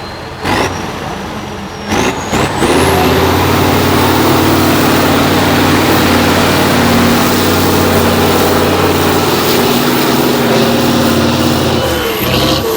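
Heavy off-road trial truck's diesel engine held at high revs under load, with a high whistle rising in pitch as it spools up over the first few seconds. The engine note drops off near the end.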